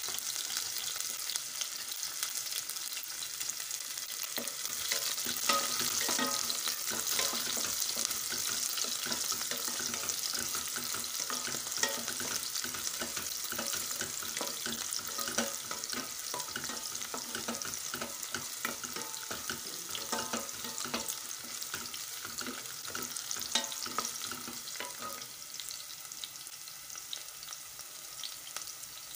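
Shallots, garlic cloves and fenugreek seeds sizzling in hot oil in a stainless steel pot. A wooden spoon stirs them, clicking and scraping against the pot from about five seconds in until near the end.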